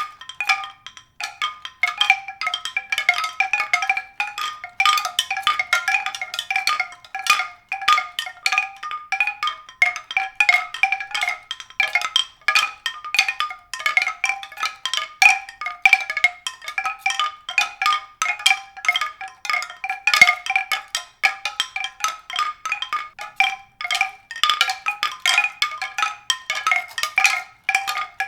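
A continuous stream of struck, pitched notes, several a second, ringing on a small set of recurring pitches, in the manner of mallet percussion.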